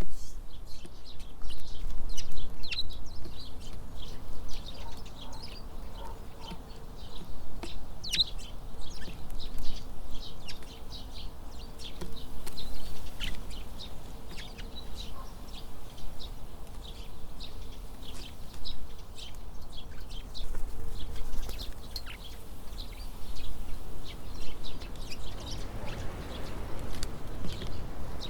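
Small songbirds chirping with many short, high calls, over the rumble of wind on the microphone.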